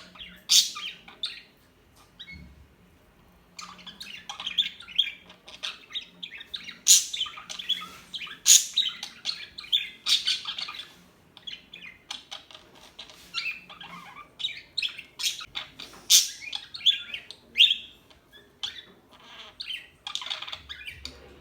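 Pet parakeets (budgerigars) chirping and chattering in a dense, continuous warble, with a few sharp louder calls and a short lull about two seconds in.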